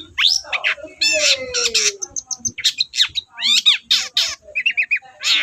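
Long-tailed shrike (cendet) singing a fast, varied song. Harsh squawks run into sweeping whistles, slurred glides and quick chirps, with hardly a pause.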